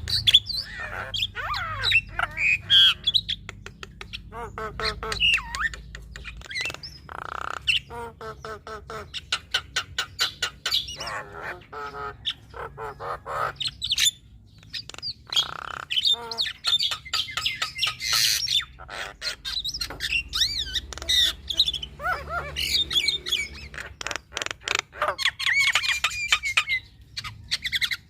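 Female Javan myna singing a long, varied song of harsh squawks, rapid clicking rattles and whistled gliding notes. This is the full song that keepers use to train other starlings.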